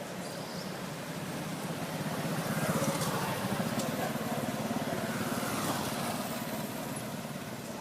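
A motor vehicle's engine running, growing louder in the middle and fading near the end.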